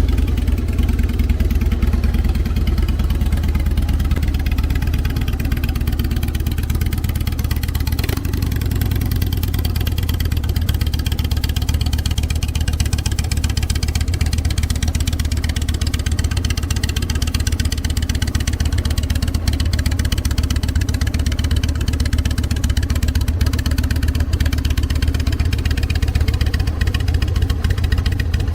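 Carbureted Harley-Davidson Evolution Sportster's air-cooled V-twin idling steadily, warming up after a cold start in freezing weather.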